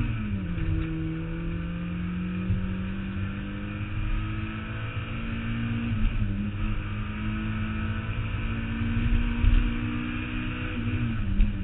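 Mazda Miata's four-cylinder engine running hard under load. Its note drops sharply just after the start, then climbs slowly, dips briefly about six seconds in and drops again near the end, over a heavy low rumble.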